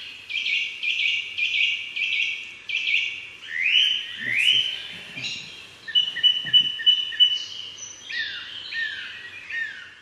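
Bird calls: a run of short chirps, then two rising whistled sweeps, a quick string of high repeated notes, and falling notes, fading out near the end.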